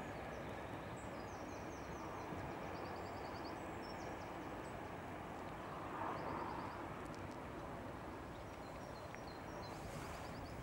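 A small songbird singing several short runs of quick, high chirps, over a steady low rush of outdoor noise from a train moving off into the distance.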